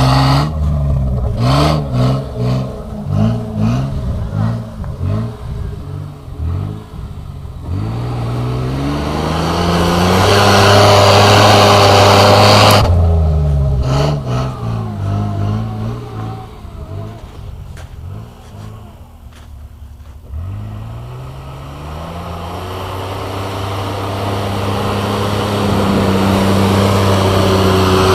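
Mitsubishi Pajero's 3.0-litre V6 engine revving in many short rises and falls, then pulling up to a steady high-revving drone. The sound breaks off abruptly about halfway through, the short revs come again, the engine drops low for a moment, then climbs steadily back to a sustained high rev.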